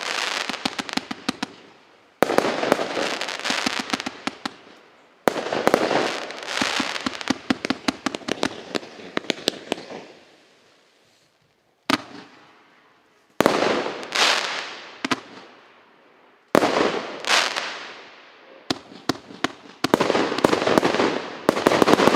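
An 86-shot 'Moy General' fireworks cake firing in volleys of aerial bursts. Each volley starts with a sharp bang and is followed by dense crackling that fades over a couple of seconds. There are about seven volleys a few seconds apart, with a short lull near the middle.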